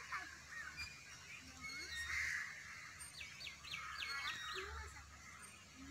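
Birds chirping and calling in the trees, several short calls scattered through, with a quick run of repeated notes about three seconds in.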